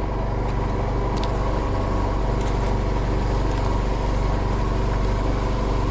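A fishing boat's engine running steadily, an even low hum with no change in pitch.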